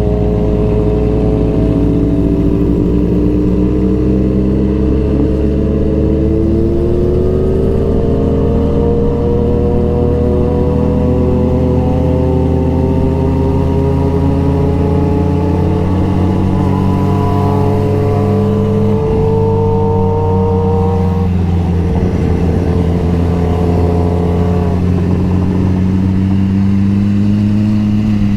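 Motorcycle engine running under way, its pitch climbing slowly for much of the time, dropping about two-thirds of the way through, then climbing again.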